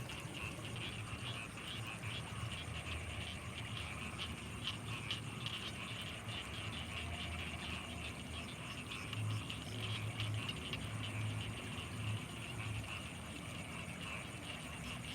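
Night chorus of frogs in the rice fields, a dense fast pulsing with a steady high insect-like trill over it. A low pulsing sound grows stronger for a few seconds past the middle.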